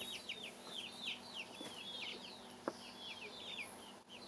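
Faint chirping from several small birds: short, high, downward-sweeping chirps, several a second and overlapping. A single light tap sounds about two and a half seconds in.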